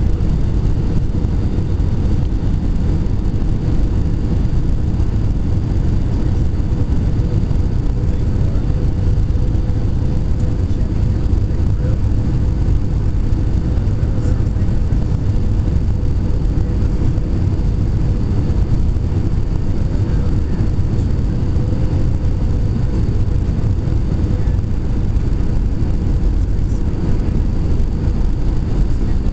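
Jet airliner cabin noise: a steady low rumble of engines and rushing air, with a faint steady hum running through it.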